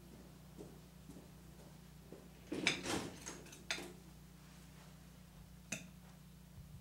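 A few sharp clinks and clicks of cutlery against dishes: a quick cluster about two and a half seconds in, then single clicks about a second and about three seconds later, over a faint steady hum.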